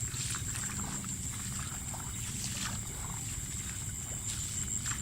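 Water sloshing, with scattered small splashes and knocks, as someone moves through shallow water and handles fishing lines. Behind it runs a steady high-pitched drone of night insects.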